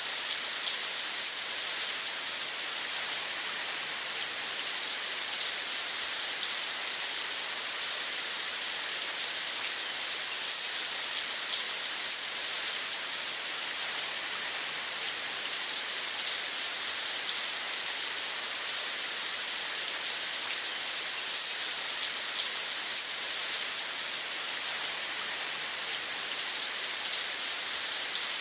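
Steady rain falling, a dense even patter of many small drops with no let-up.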